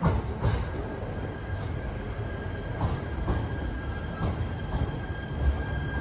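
Shinano Railway SR1 series electric train pulling slowly into a platform, with a steady rumble and a thin steady high-pitched squeal from about half a second in. There are several sharp clacks from the wheels at irregular intervals.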